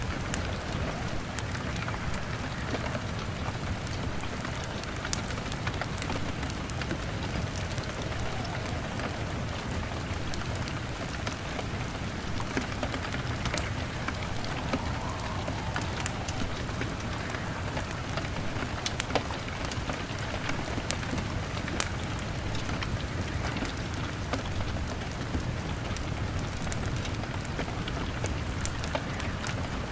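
Steady rain on a window with a log fire crackling, sharp little pops and ticks scattered over an even rushing hiss.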